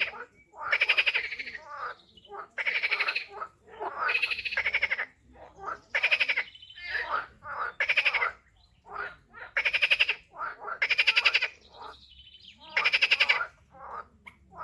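Frogs calling in a run of short rattling trills, about one every second or two, with quiet gaps between.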